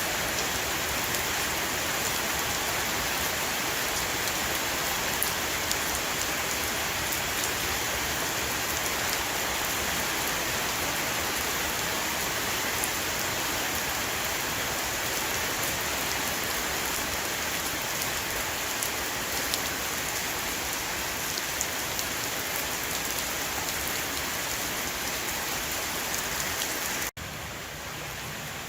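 Heavy rain pouring onto a roof: a dense, steady hiss with scattered sharp drop ticks. About a second and a half before the end it cuts off abruptly and drops to a quieter, duller rain.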